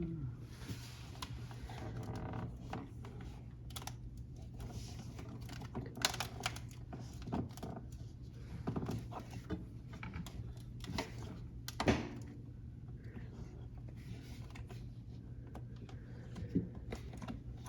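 Irregular clicks, taps and rustles of hands working on a refrigerator's plastic parts and wiring, over a steady low hum.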